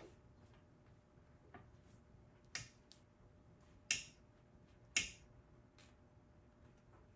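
Three sharp clicks or knocks from hand tools working on the brake hub, a little over a second apart, with a few fainter ticks between.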